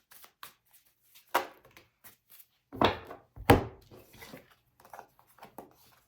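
Tarot cards being handled and knocked down on a table: scattered light clicks and a few sharp knocks, the two loudest about three seconds in.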